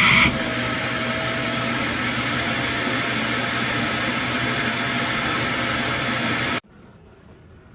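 iRobot Roomba Combo i5+ vacuum motor running loud and steady, with a faint high whine on top. It cuts off suddenly about six and a half seconds in.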